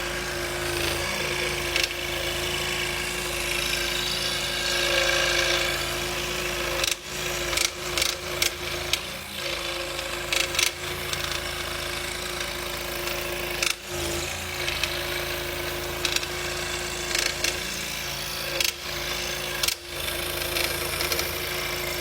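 Scroll saw running steadily as its blade cuts half-inch hard maple, with short sharp clicks and brief dips in level now and then through the cut.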